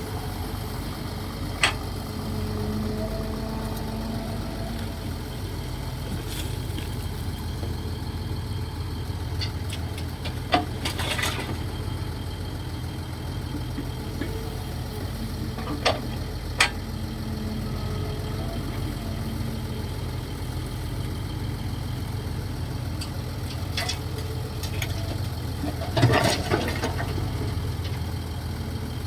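Kobelco SK135SR excavator's diesel engine running steadily as it digs, with a few sharp metal clanks and knocks from the bucket and arm, the loudest cluster near the end.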